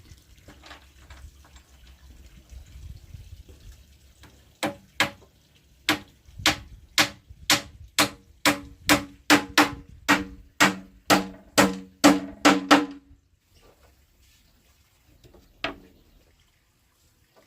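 A hammer striking wood in a steady run of blows, quickening to about three a second. Each blow rings briefly, typical of nailing boards together. One more blow comes a couple of seconds after the run stops.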